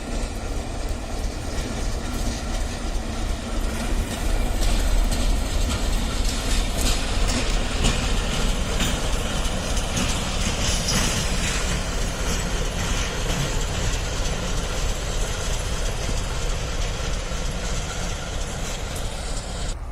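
Freight train rolling past, its wagon wheels rumbling on the rails with scattered clicks over the rail joints, growing louder about four seconds in.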